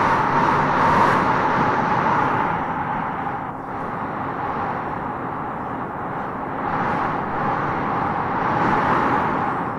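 Howling wind gusting through trees: a whistling howl over a steady rush, easing a few seconds in and swelling again in gusts toward the end.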